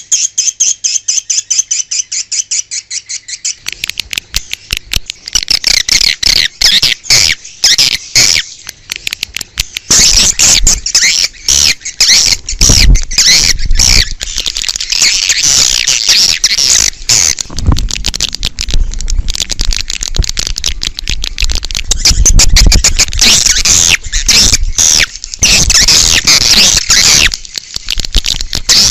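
Swiftlets twittering: rapid, overlapping high chirps from a flock, in a lure recording made to call swiftlets to a nesting house. It opens as an evenly spaced run of sharp chirps and thickens into a dense chatter about four seconds in.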